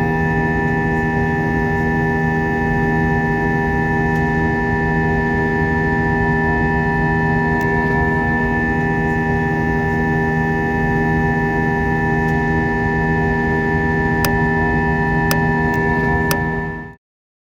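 Boeing 737 cabin drone in flight: steady jet engine noise with several constant tones held unchanged throughout. A few faint ticks come near the end, then the sound cuts off abruptly.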